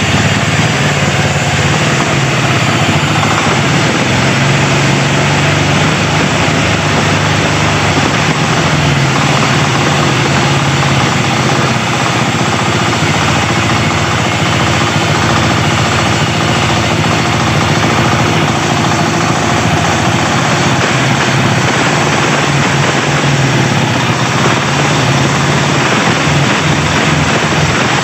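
A Daimax 16-horsepower air-cooled engine running steadily on test, a loud, even, unbroken engine note.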